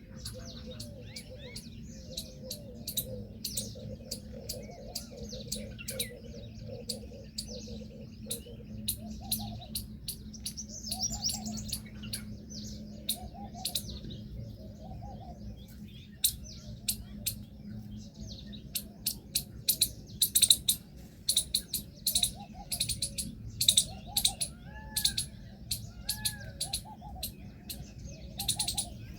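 Several birds calling together: many short, sharp high chirps, thickest in the second half, over a lower arched call repeated about once a second. A steady low hum runs underneath.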